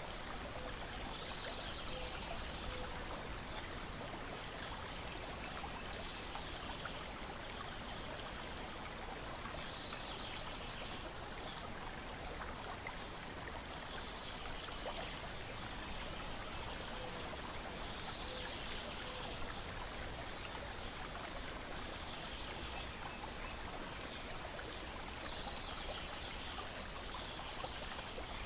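Lake water lapping and splashing gently against a shore and wooden deck, a steady trickling wash, with a brief high trill recurring every few seconds and faint crackles of a wood fire.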